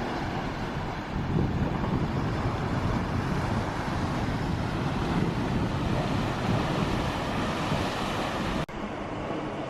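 Coastal wind buffeting the camera microphone, mixed with the wash of sea surf below. It cuts out for an instant near the end.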